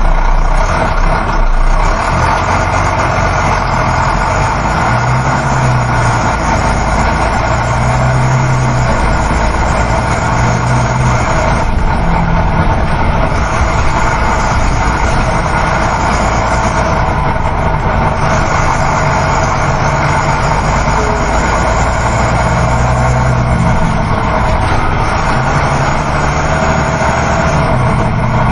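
Coach bus on the move, heard from inside the passenger cabin: a steady engine drone and road rumble, with the low engine note swelling and fading every few seconds.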